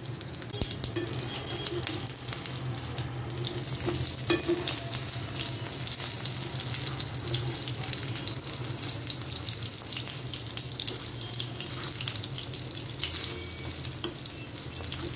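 Prawn fritters frying in oil on a low flame: a steady crackling sizzle. A metal spatula turning the fritters now and then scrapes the pan.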